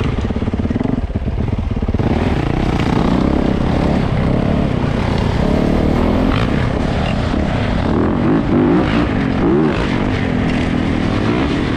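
Yamaha YZ450 dirt bike's single-cylinder four-stroke engine running loud and revving, its pitch rising and falling as the throttle is worked.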